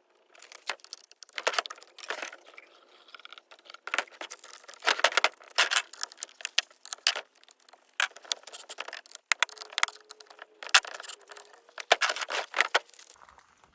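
Irregular metallic jingling and clinking in quick clusters of sharp clicks throughout, with no low rumble underneath.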